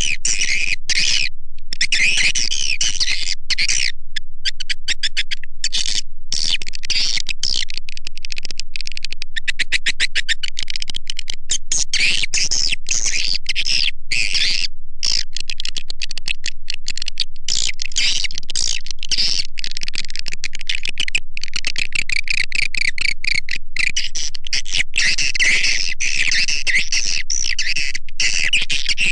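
Swiftlet lure call: a loud, dense recording of edible-nest swiftlets chattering and twittering in a continuous high-pitched stream, with many brief gaps. It is played to attract swiftlets to a nesting house.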